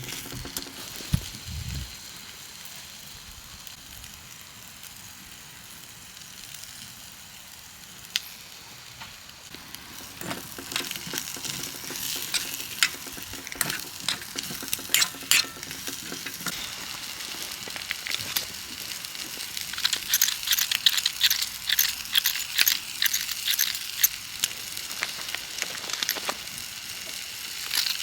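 A fire crackling and sizzling, with a steady hiss and many sharp pops that come thicker in the last third.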